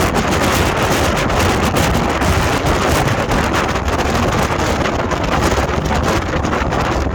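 Strong wind buffeting the microphone, a loud, steady rush of noise heavy in the low end, as on the open deck of a ferry in rough seas.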